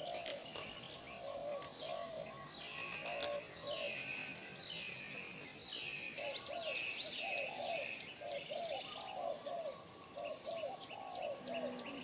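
Birds calling: a high chirp that falls in pitch, repeated about once a second, over lower arched notes in short groups of two or three. A few sharp clicks come near the start.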